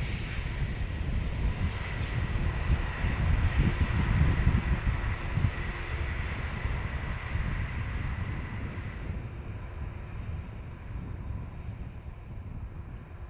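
Jet airliner passing close by on short final, its engines' steady roar with a high fan whine, loudest about four seconds in and then fading away as it moves off, the whine dying out about two-thirds of the way through.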